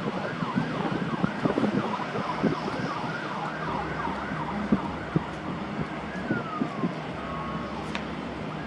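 Emergency vehicle siren in yelp mode, a tone sweeping rapidly up and down about two to three times a second, then sliding slowly downward a few times near the end.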